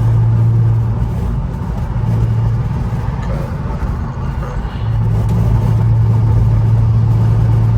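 Twin-turbo VR30 V6 of an Infiniti Q50 cruising at highway speed, heard from inside the car: a steady low exhaust drone that eases off briefly about a second in and again around three to five seconds in, then holds steady.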